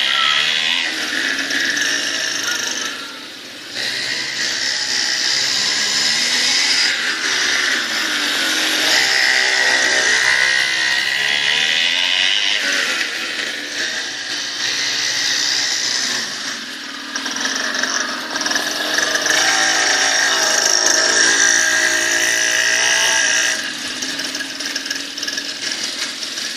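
Mini dirt bike's small motor running with a high-pitched, buzzing note, revving up and down repeatedly as it is ridden, easing off briefly a few times.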